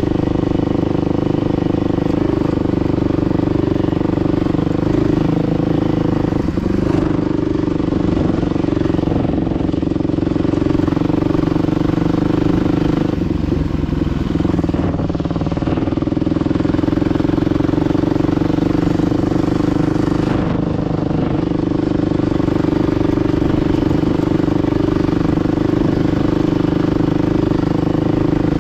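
Dirt bike engine running steadily under way, its pitch dipping and picking up again a few times as the throttle is eased and opened.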